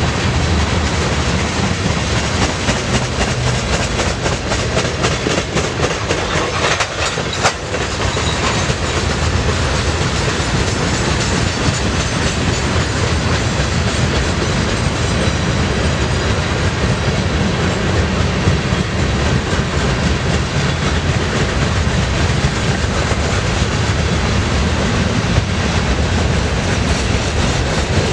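Freight train of tank cars and covered hopper cars rolling past, a steady rumble of steel wheels on rail with constant clicking over the rail joints.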